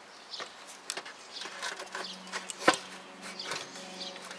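Scattered clicks and knocks of parts being handled as an intake manifold is lowered into position on the engine, with one sharp knock about two-thirds of the way through. A faint steady hum starts about halfway.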